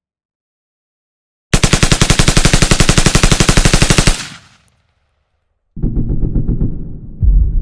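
A machine gun firing one rapid burst of about two and a half seconds, roughly ten shots a second, with a short echoing tail. After a pause, a lower, rapid rattling sound begins near the end.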